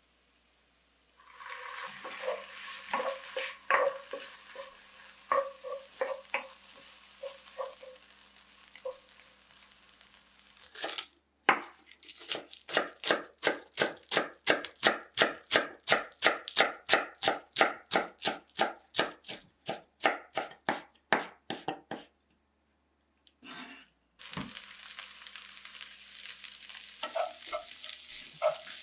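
Food sizzling in a frying pan with scattered utensil clicks and scrapes. About eleven seconds in comes a steady run of knife chops on a cutting board, about three a second for some ten seconds, and after a short pause the sizzling resumes.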